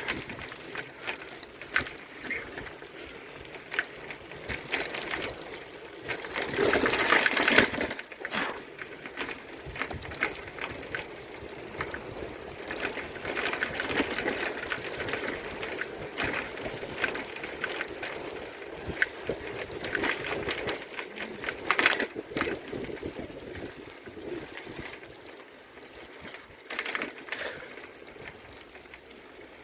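Bicycle being ridden: rattling and rapid clicking over a steady rush of noise, with a louder rush about seven seconds in.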